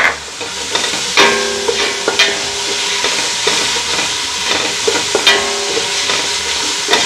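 A sofrito of onion, garlic and diced red bell pepper sizzling steadily in oil in a stainless steel pot. A wooden spatula stirring it scrapes and knocks against the pot several times.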